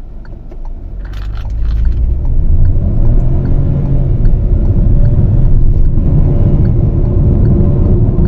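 Proton X50's 1.5-litre turbocharged three-cylinder engine under hard acceleration from a launch-control start. It is held at revs first, then grows louder about a second in as the car pulls away, and keeps running loud and steady.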